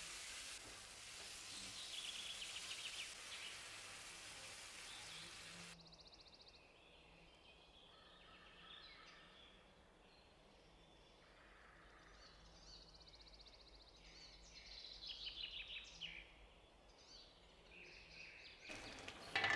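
Diced beef, potatoes and vegetables sizzling as they fry in a non-stick pan, stirred with a wooden spatula. About six seconds in the sizzle cuts off, leaving a much quieter stretch with faint chirps, and a louder sound starts near the end.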